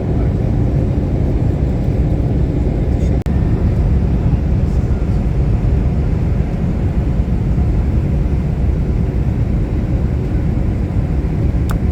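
Steady rumbling noise of a passenger airplane, engine and air noise with no distinct pitch, broken only by a brief dip about three seconds in.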